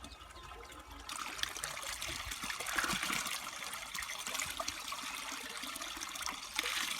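Spring water trickling and splashing, getting clearly louder about a second in as the flow starts hitting the container or the ground.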